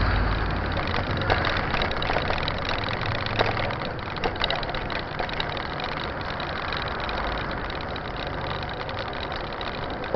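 Riding noise from a mountain bike on the move: steady wind and road rumble with scattered rattling clicks. The low rumble eases after about four seconds.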